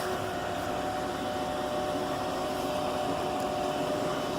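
Steady mechanical hum with several constant whining tones over an even background noise.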